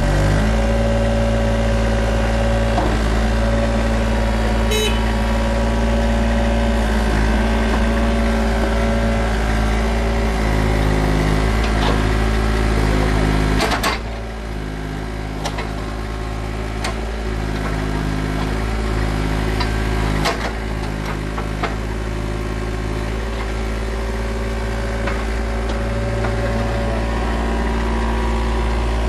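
Water-cooled CAT C1.8 diesel engine of a Caterpillar 303.5E2 mini excavator running steadily. About halfway through, the sound drops in level and the engine note changes, and a few sharp clicks and knocks follow.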